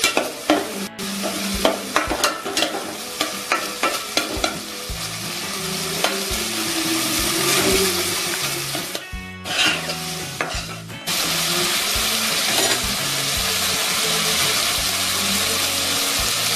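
Prawns and coconut pieces sizzling in a frying pan while a spatula stirs and scrapes them against the pan: scraping clicks in the first few seconds, then a steady sizzle. The last of the cooking liquid is boiling off as the dish fries dry.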